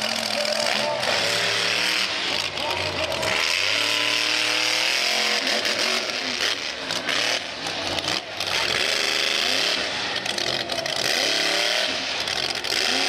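Monster truck engine running loud and revving up and down repeatedly.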